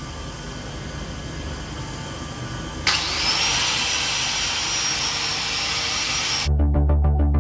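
Angle grinder switched on about three seconds in, its whine rising as it spins up and then running steadily. Near the end it cuts off suddenly and electronic music with a heavy bass comes in.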